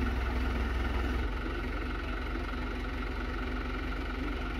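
Hino Dutro 130 HD dump truck's diesel engine idling steadily, its low rumble easing slightly about a second in.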